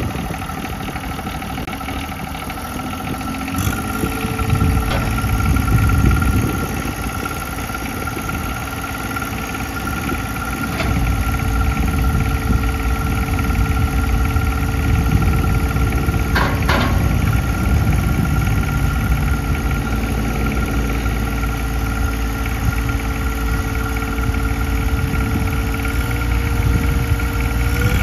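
A John Deere 1026R compact tractor's three-cylinder diesel engine running steadily. It gets louder about four seconds in and steps up again around eleven seconds, then holds there, with a few short clicks along the way.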